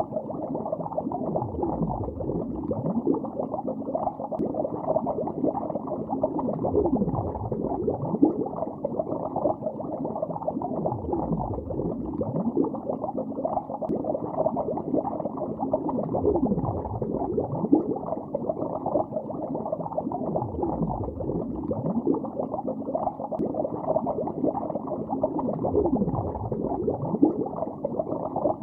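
Continuous underwater bubbling, heard as a dense, muffled gurgle with nothing bright or high in it. It swells in a recurring sweep about every four to five seconds.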